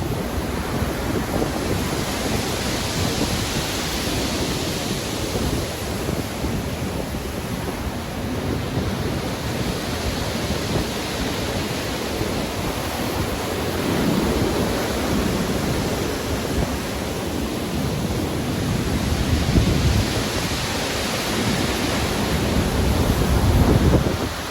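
Stormy sea: a continuous wash of heavy surf and wind, with waves swelling louder several times and a deep low surge near the end.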